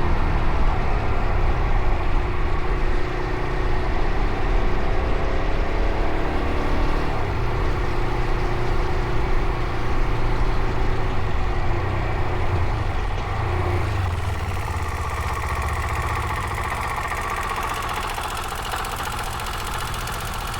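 Fantic Caballero Rally 500's single-cylinder four-stroke engine running under way, then slowly getting quieter over the last third and settling toward idle.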